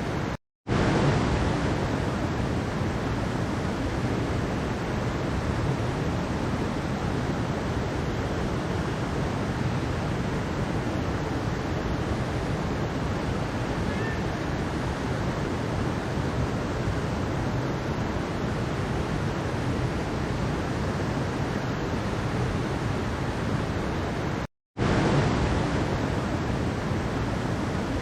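Mountain stream water rushing steadily. The sound cuts out to silence twice for a moment, about half a second in and near the end.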